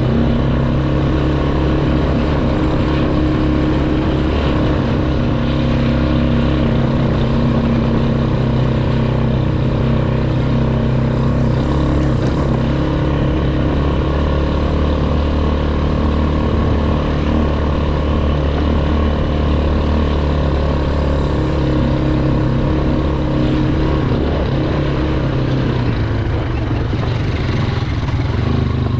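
Outboard boat motor running steadily for the whole stretch, its pitch shifting slightly now and then.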